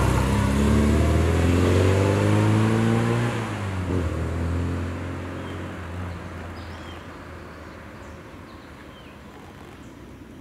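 Classic Mini's four-cylinder engine as the car pulls away, its note shifting in pitch for the first few seconds and then fading steadily into the distance.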